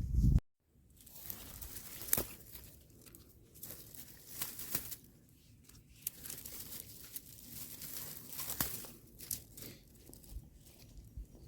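Irregular rustling and crackling of vegetation, with a loud low thump at the very start followed by a brief dropout to silence.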